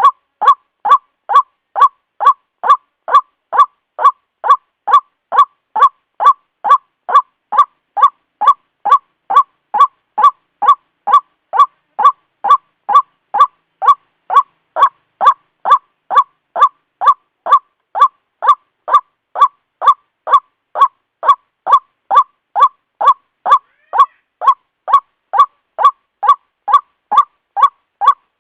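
White-breasted waterhen (ruak-ruak) calling: one short honking note repeated evenly and without pause, about two and a half times a second.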